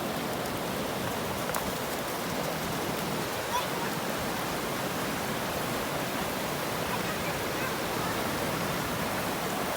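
Steady beach ambience: an even, constant wash of ocean surf and wind with no distinct breaking waves.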